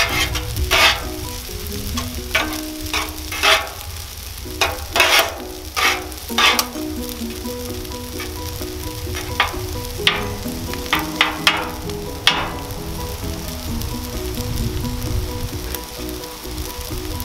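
Food sizzling on a Blackstone steel flat-top griddle while a metal spatula scrapes and clacks across the cooktop at irregular intervals, turning and chopping the pieces.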